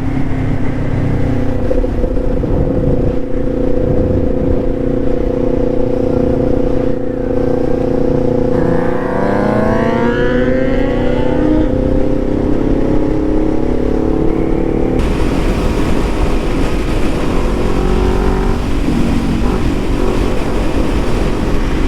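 Motorcycle engine running steadily while riding, with wind noise on the microphone. The engine pitch rises as it accelerates about a third of the way through, and the wind noise grows louder near two-thirds in.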